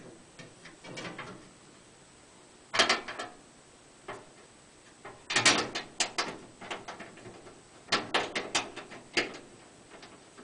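Clunks, scrapes and rattles as a battery disconnect under the floor is checked and its floor access cover is handled and set back in place. They come in several short bursts with quiet pauses between.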